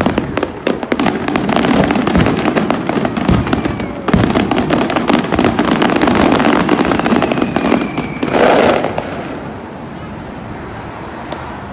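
Fireworks finale: a dense, rapid barrage of aerial shell bursts and crackling, the bangs echoing off nearby skyscrapers. The barrage thins out and stops about nine seconds in, leaving a quieter hum of noise.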